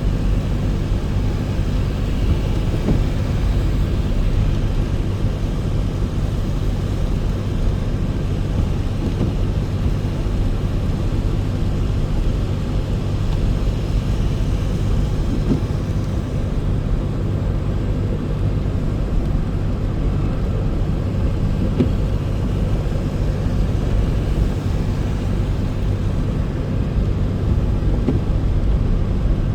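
Steady road and engine noise of a car being driven, heard from inside the car: a constant low rumble with a fainter hiss above it.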